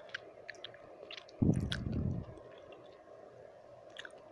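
Close-miked wet mouth sounds: scattered sticky lip and tongue clicks, over a faint steady background noise. About a second and a half in comes one loud breathy burst of air on the microphone, lasting under a second.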